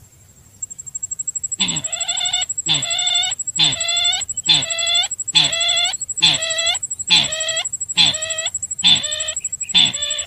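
Sintar bird lure call played back, a run of harsh, many-toned calls repeated about once a second after a brief patter of fast ticks at the start. A thin, steady high whine runs underneath.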